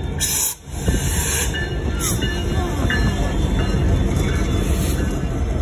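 Canadian Pacific freight cars passing close by, a loud steady rumble of wheels on rail with a few short bursts of higher hissing rattle. The sound drops out briefly about half a second in.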